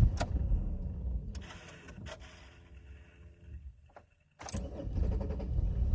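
2000 Chevrolet Impala's 3400 V6 engine faltering: its running sound fades away over about four seconds, drops out briefly, then the engine starts again and runs with a low rumble. It is a stall-and-restart, which the owner is chasing as low to no fuel pressure.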